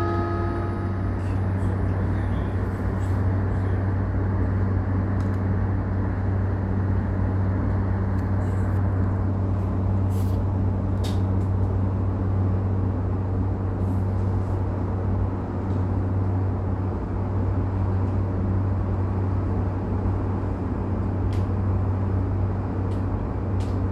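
Electric commuter train running slowly, heard from inside the passenger car: a steady low hum and rumble, with a few faint clicks around ten to eleven seconds in.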